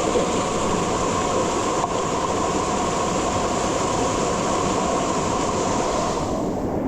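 Waterfall pouring into a mountain gorge: a loud, steady rush of falling water. Its high hiss falls away near the end.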